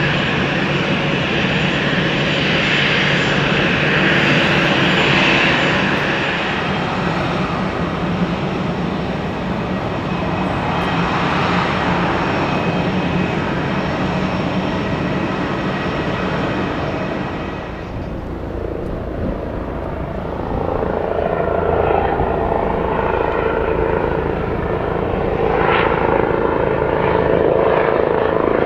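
Jet airliner engines running loud and steady, easing off about two-thirds of the way through. A helicopter's rotor and engine sound then builds up and grows louder toward the end.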